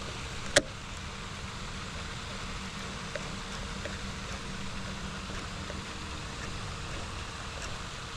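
Steady background rumble and hiss with a faint hum, like distant traffic, and one sharp click about half a second in.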